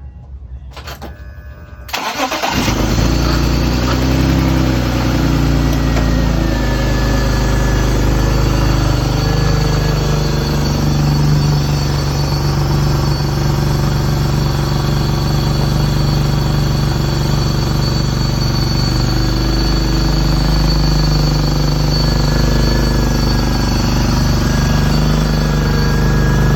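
The Mutt's engine starting up about two seconds in, then running steadily.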